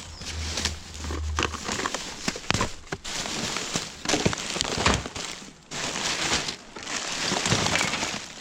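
Rustling and crinkling of bags and packaging being rummaged through and handled, with scattered knocks and clicks.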